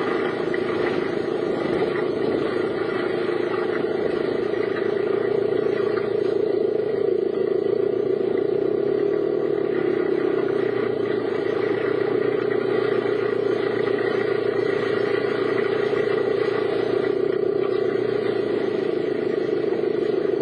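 Steady road and engine noise from a car being driven, recorded from inside the vehicle.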